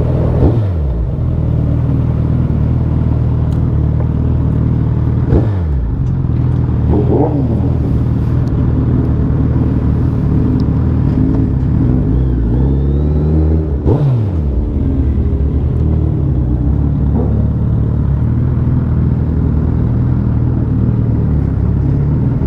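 Superbike engine running steadily at low revs, with a rev that rises and falls about twelve seconds in and a few quick drops in pitch.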